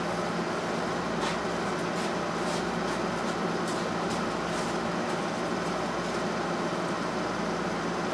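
A steady mechanical hum, even and unchanging, with a few faint light clicks scattered through it.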